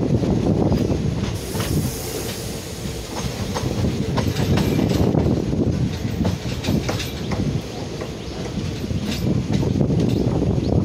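Passenger express train running at speed, heard from an open coach doorway: a steady rumble of wheels on rail with irregular clicking as they pass over the track, and wind rushing past the doorway for a few seconds early in the stretch.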